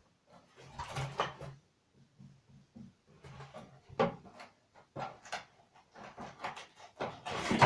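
A series of irregular knocks, clicks and rustles from objects being handled and moved, the loudest near the end.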